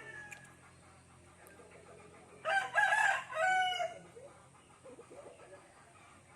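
A rooster crows once, starting about two and a half seconds in and lasting about a second and a half, its last note falling in pitch.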